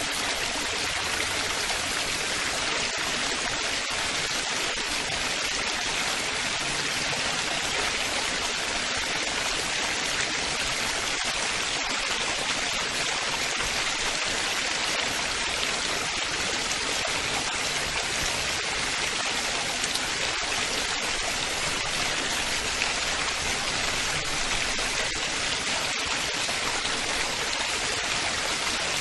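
Running water babbling and splashing steadily, like a small stream or waterfall, with no change throughout.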